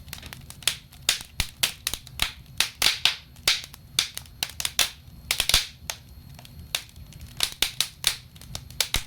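Wood fire crackling in a stove or fireplace: irregular sharp pops and snaps of burning logs, several a second and of varying loudness, over a low steady rumble.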